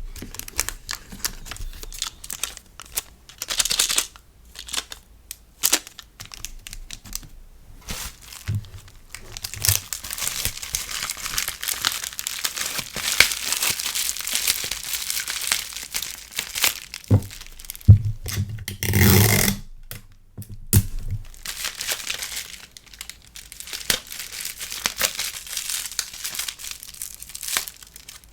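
Packaging being handled for a sticker order: crinkling and rustling with bits of tearing and sharp taps. There is a louder swish about 19 seconds in.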